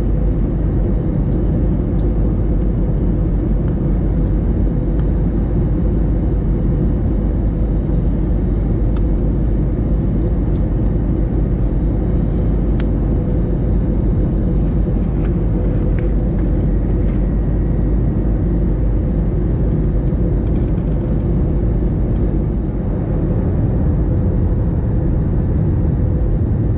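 Airbus A321 cabin noise in flight on approach: a steady rumble of engines and rushing air with a constant hum over it.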